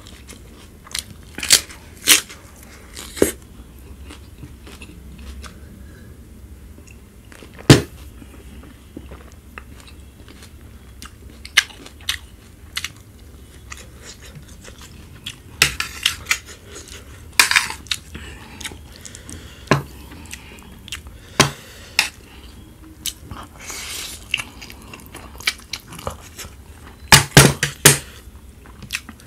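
Close-miked chewing and biting of crisp lettuce and spicy instant noodles, with short crunches and crackles coming irregularly and a cluster of louder crunches near the end.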